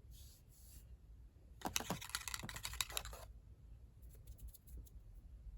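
Packaging being handled: two short, soft rustles, then about a second and a half of dense, crisp crinkling and clicking, and a few faint light taps near the end.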